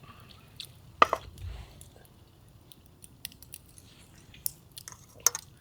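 A person eating: quiet chewing with a few sharp clicks and taps, one about a second in and a small cluster near the end.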